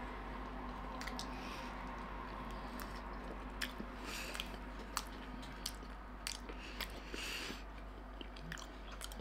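A person chewing a mouthful of piri piri chicken wrap with the mouth closed: irregular wet clicks and smacking mouth sounds over a faint steady hum.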